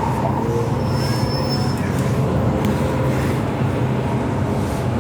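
MTR M-Train metro train running, a steady low rumble with a constant hum, a tone that fades early on, and a brief high whine about a second in.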